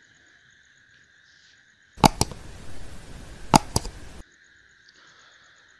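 Gas brazing torch hissing for about two seconds, with sharp clicks near its start and again near its end, while the charging pipe is heated to melt it shut. Faint steady chirring of crickets runs underneath.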